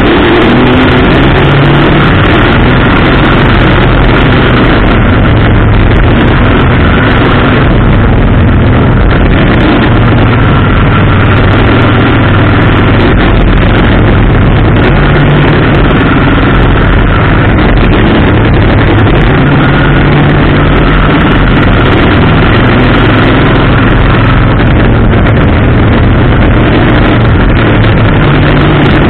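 Race car's engine running hard through the laps, heard loud and close from a camera mounted on the car, its pitch rising and falling a little through the turns.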